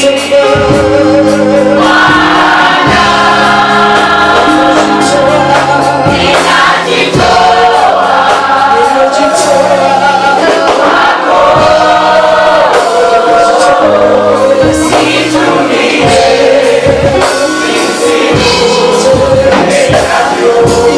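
Live gospel worship music: a choir singing with vibrato over a band with a steady bass line and a regular drum beat.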